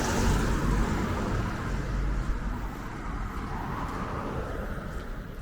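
A motor vehicle passing on the street, its engine and tyre noise loudest at first, then slowly fading as it moves away.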